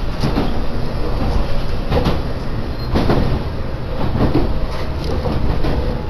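Passenger train running along the line, heard from on board: a steady low rumble of the running gear with an occasional knock from the wheels on the rails.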